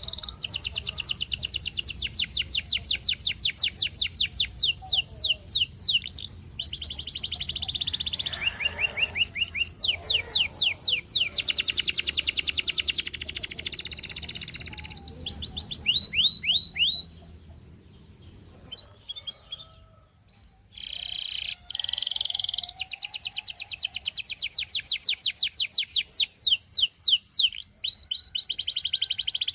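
Canary singing: long runs of fast, evenly repeated trilled notes, with a short break a little past halfway before the song starts again.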